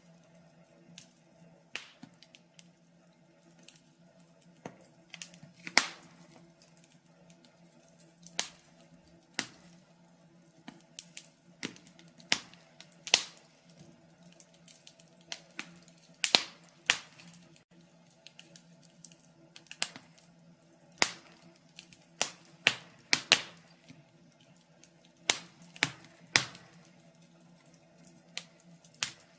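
Wood logs burning in a fireplace: irregular sharp crackles and pops, some louder snaps among them, over a faint low steady hum.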